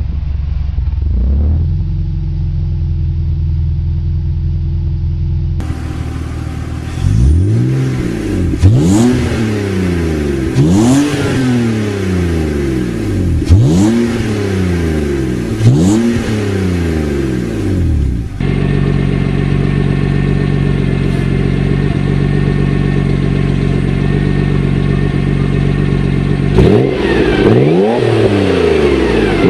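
Exhausts of ordinary road cars in a series of short cut-together clips. One car idles steadily, then another is revved in about five quick blips that rise and fall back to idle. A third idles and is revved again near the end.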